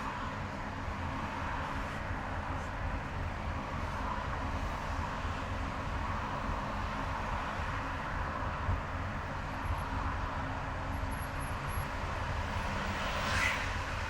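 Car driving in highway traffic: a steady rumble of engine and tyre noise. A brief louder hiss comes near the end.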